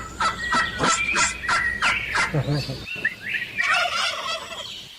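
Turkey gobbling: a fast rattling run of short notes for the first two seconds or so, then another burst of gobbling about three and a half seconds in.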